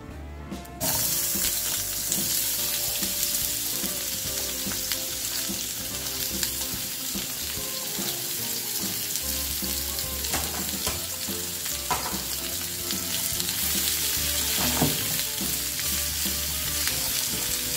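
Sliced red onion dropped into hot oil in a frying pan, the oil starting to sizzle suddenly about a second in and sizzling steadily while the onion is stirred with a silicone spatula.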